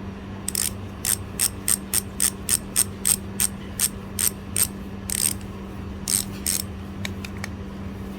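Bicycle freehub ratcheting: its pawls give sharp, evenly spaced clicks about three a second, then slow and thin out to a few fainter clicks near the end.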